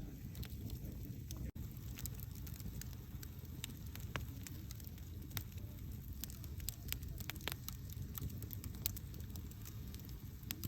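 Campfire burning: a steady low rumble of flames with frequent irregular sharp crackles and pops. The sound drops out for a split second about a second and a half in.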